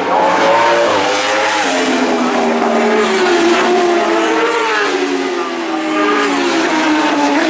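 Superbike racing motorcycles running at speed, several engine notes sliding slowly down in pitch as they go by.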